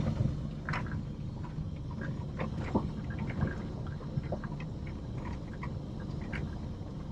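Low, steady hum of the 1996 Ford F250's engine heard from inside the cab, with many small clicks and rattles scattered through it.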